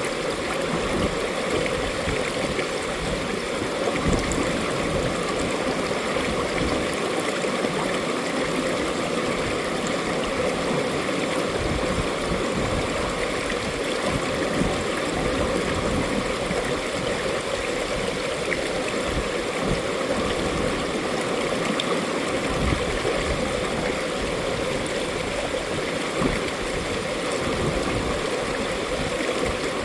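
Mountain valley stream flowing over rocks: a steady, continuous rush of water with small gurgles and splashes.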